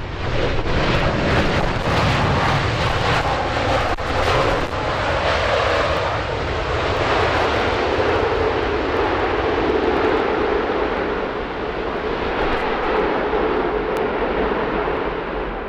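Airliner's jet engines at takeoff power on the runway, loud, with a crackling rumble for the first few seconds that gives way to a steadier noise and fades near the end.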